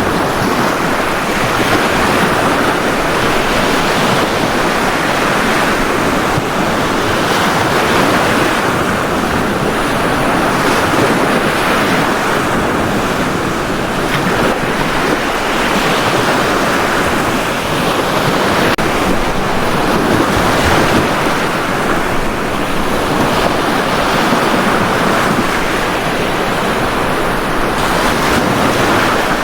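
Ocean surf breaking on a beach: a steady wash of waves that swells and eases every few seconds.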